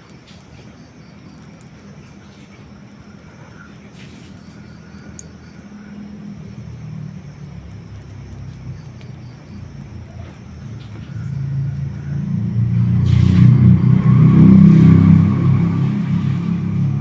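Low rumble of a passing motor vehicle, swelling over several seconds to its loudest about two-thirds in, then easing off. It drowns the faint crackles of a wood campfire heard earlier.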